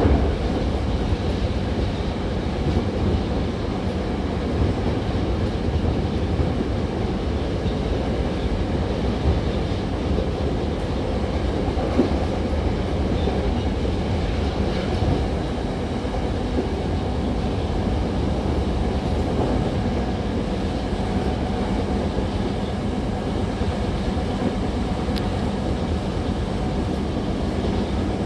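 Hankyu 7000-series commuter train running on the line, heard from inside the carriage: a steady low rumble of wheels on rail, with a single click about twelve seconds in.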